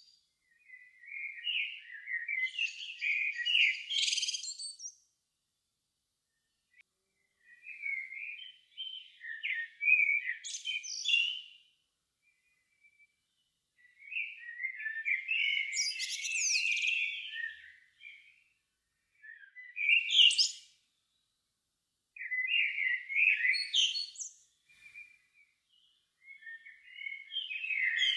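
A songbird singing in separate twittering phrases of one to four seconds, about six of them with short silent pauses between, each ending in a rapid rising flourish.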